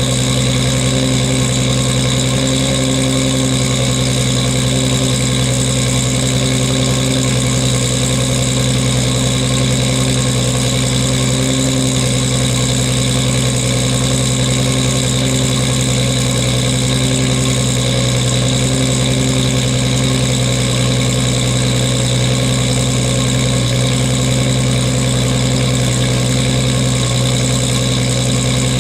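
1998 Toyota Supra Turbo's 2JZ-GTE inline-six idling steadily through an HKS titanium racing exhaust with its silencer fitted, warming up after a cold start. The pitch and level hold even, with no revving.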